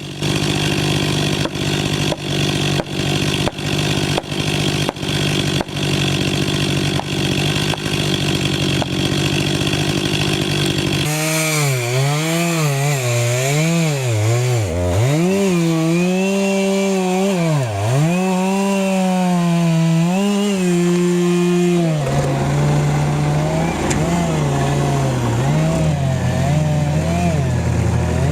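Chainsaw engine running and cutting: in the first third it holds a steady note under sharp regular knocks about twice a second. It then revs with its pitch dipping and recovering again and again as the chain bogs in the wood, and settles to a steadier note near the end.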